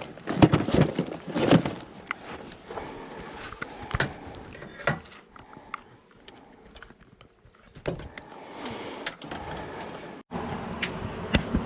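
Scattered knocks, clicks and short scrapes of hand work on wall panels, with a steadier noise taking over near the end.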